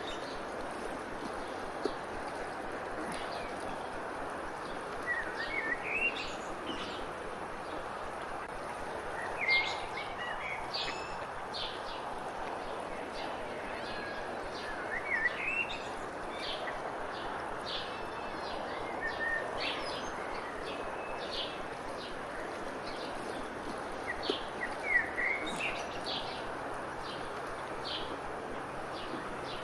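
Wild songbirds chirping and singing in short phrases, in clusters several seconds apart, over a steady background hiss.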